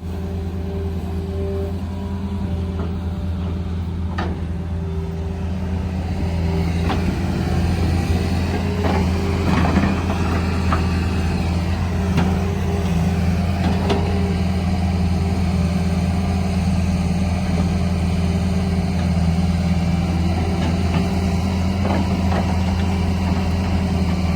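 Heavy diesel engine running steadily with a low hum, getting a little louder several seconds in, with a few short knocks over it.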